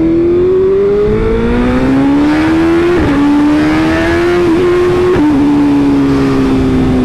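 Motorcycle engine accelerating with a rising pitch, shifting up about three seconds in and again about five seconds in, then pulling on at a fairly steady pitch.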